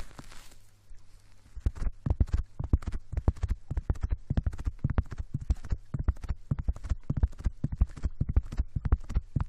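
Rapid, irregular close-up taps and scratches on the microphone, as in ASMR tapping, starting about a second and a half in.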